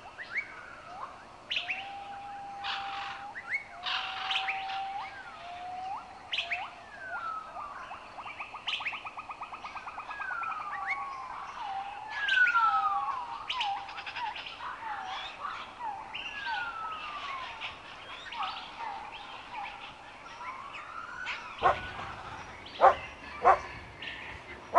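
Birds calling: repeated whistled notes, many sliding down in pitch, some held briefly, with a short buzzy trill near the middle. A few sharp knocks come near the end.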